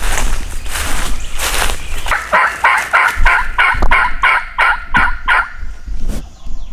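A run of about a dozen turkey yelps, some three or four a second, each note breaking downward, used to call a gobbler in. It comes after about two seconds of rough noise.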